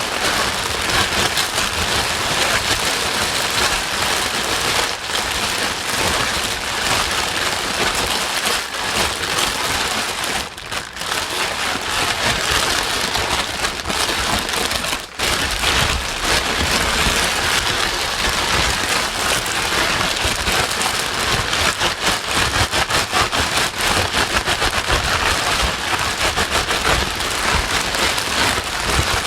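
Loud, steady white noise with a fine crackling, rain-like texture, briefly dipping about ten and fifteen seconds in.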